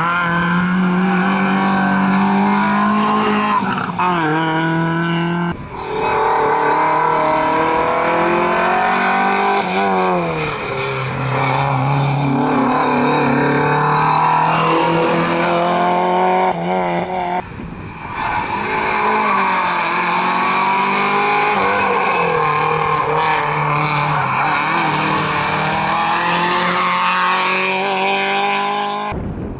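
Rally cars driven flat out, engines revving high and dropping again through repeated gear changes. The sound cuts abruptly from one car to another twice.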